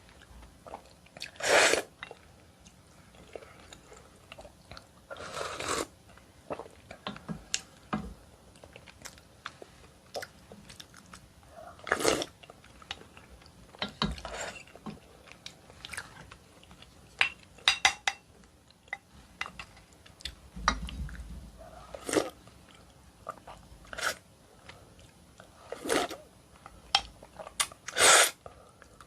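Close-miked eating of seaweed and oyster soup: irregular wet chewing and mouth clicks, with several louder short bursts spread through.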